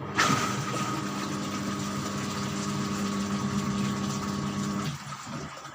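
LG washing machine's motor switching on and running with a steady hum, cutting off near the end.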